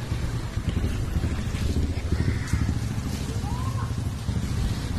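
Motorcycle riding on a wet road: a steady low engine and road rumble under a haze of wind and tyre noise.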